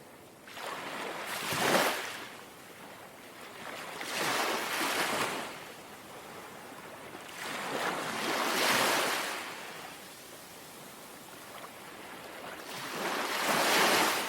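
Gentle sea waves lapping at the shore, four small waves washing in one after another about every four seconds, each swelling and falling away, with a soft hiss between them.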